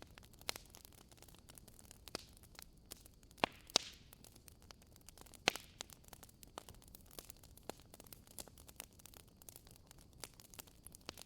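Wood fire crackling in a fireplace: faint, irregular snaps and pops over a soft hiss, with a few louder pops about three and a half and five and a half seconds in.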